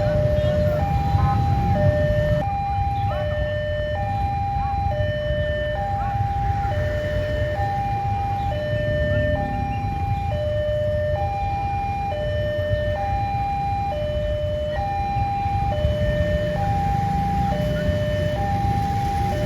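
Railway level-crossing warning alarm sounding: an electronic two-tone signal, a higher and a lower tone alternating about once a second each, over a steady low rumble. It signals that a train is approaching the crossing.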